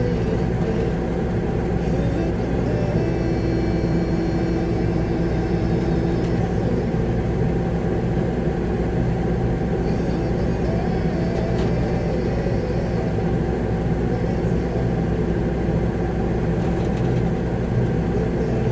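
Diesel engine of a concrete mixer truck running steadily, heard from inside the cab.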